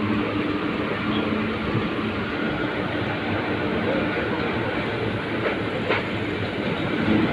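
Indian Railways passenger train running, heard from its open doorway: a steady rumble of wheels on track, with a few sharp clicks of the wheels over rail joints near the end.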